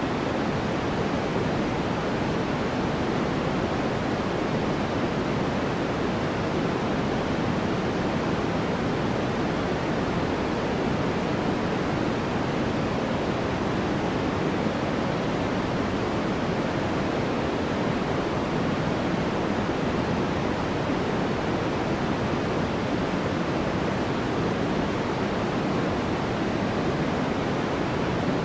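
Continuous white noise for sleep: an even, unbroken hiss, weighted toward the low and middle pitches and thinning toward the top, with no changes or breaks.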